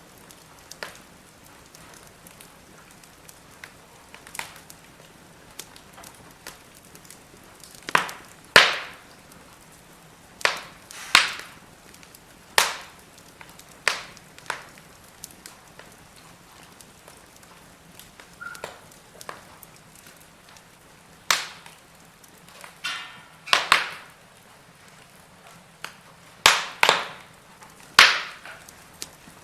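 Firewood burning in a fire pit: a soft steady hiss broken by irregular sharp crackles and pops, several coming in quick pairs.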